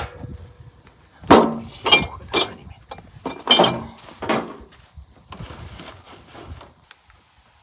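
Dishes and glassware being handled: a run of about five sharp clinks and knocks, some ringing briefly, followed by a softer scraping noise.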